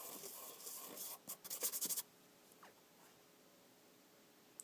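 Scraping and rubbing handling noise, ending in a quick run of sharp clicks about a second and a half in, then near silence for the rest.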